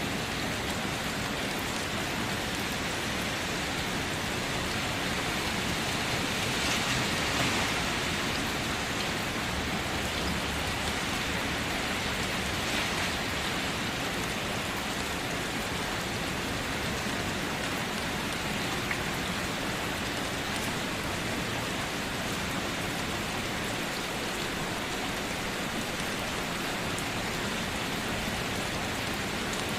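Steady rain falling, an even hiss with scattered drop ticks, swelling slightly about seven seconds in.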